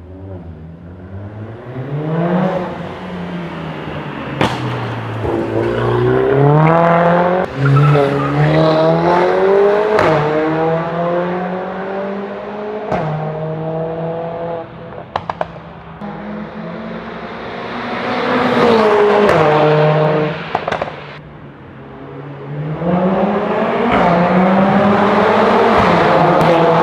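Mercedes-AMG A45 S's turbocharged 2.0-litre four-cylinder with an Armytrix exhaust, accelerating hard. Its pitch climbs through the gears and drops sharply at each upshift, several times over, with a few sharp exhaust cracks.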